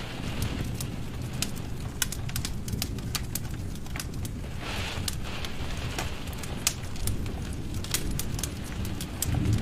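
Wood fire in a fireplace crackling, with irregular sharp pops several times a second over a steady low rush of burning.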